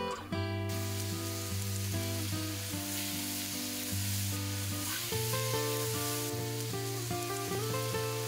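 Sliced radish and onion sizzling as they are stir-fried in a hot pan and stirred with a utensil, the sizzle starting about a second in. Soft acoustic guitar music plays underneath.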